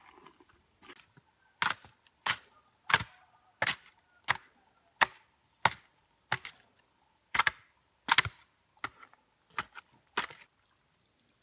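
A hand tool striking wood in a steady chopping rhythm: about a dozen sharp blows, one roughly every two-thirds of a second.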